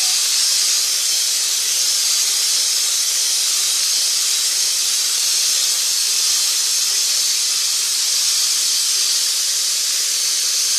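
Electric mixer running steadily, beating cake batter (butter, sugar and eggs): an even, unchanging hiss with a faint motor hum underneath.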